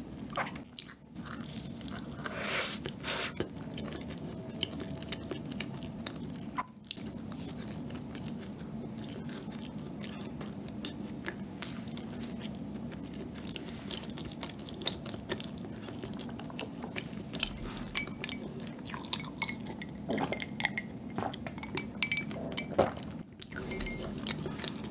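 Close-miked biting and chewing of a cookaron, a macaron sandwiching a chewy cookie-and-cream layer, with crunchy crackles in the first few seconds and again near the end over steady chewing.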